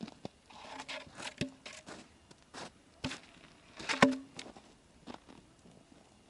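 Wood fire crackling: irregular sharp pops and snaps, the loudest about four seconds in.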